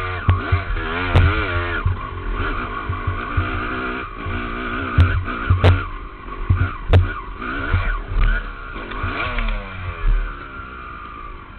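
Dirt bike engine ridden on a trail, revving up and falling back again and again as the throttle opens and closes, with sharp knocks and thumps from the ride scattered through it.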